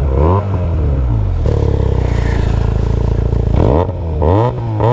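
Benelli 302S parallel-twin engine breathing through a Yoshimura exhaust, just started. It is blipped up and down twice, holds a steady idle for about two seconds, then is revved again in quick blips near the end.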